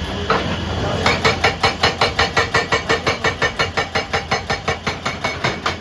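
Hydraulic rock breaker hammering, rapid evenly spaced blows at about six a second that start about a second in, over a low steady engine hum.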